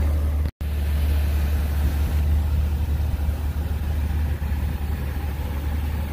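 Nissan 350Z's V6 engine idling, a steady low rumble heard from inside the cabin, with a brief dropout to silence about half a second in.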